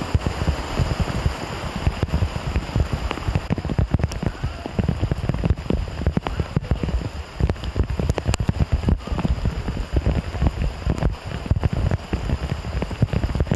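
Very heavy rain coming down hard: a steady, dense rush of drops striking hard surfaces, with many close, sharp drop hits.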